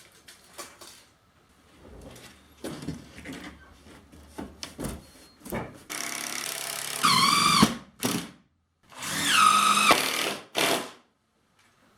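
Power drill run in two bursts of about two seconds each, its whine dropping in pitch near the end of each run. Scattered knocks and clicks come before and between the runs.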